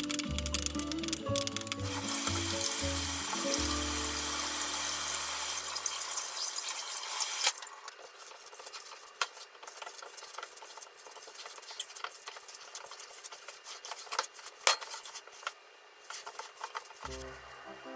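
A wooden spatula stirs and scrapes a moist minced filling in a glass bowl, making a steady hissing, sizzle-like sound that stops abruptly about 7 seconds in. After that, bare hands knead the filling in the bowl, giving quieter soft squelches and small clicks.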